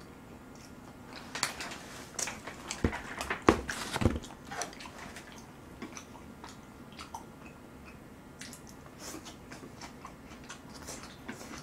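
Close-miked eating: wet clicks and smacks of a person chewing, with a cluster of louder clicks and taps in the first few seconds, then softer chewing.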